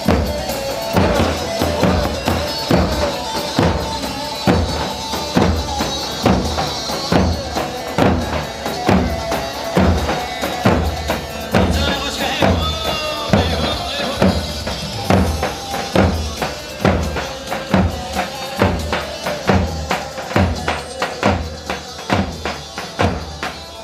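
Instrumental Turkish halay dance music played live: a keyboard melody over a steady, heavy drum beat of about two strokes a second, with no singing.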